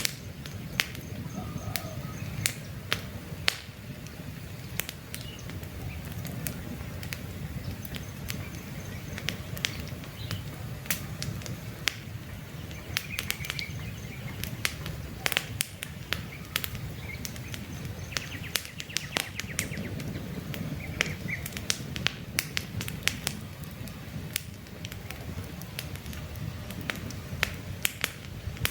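Campfire of burning logs crackling, with frequent sharp pops and snaps, some in quick clusters, over a steady low rumble of the fire.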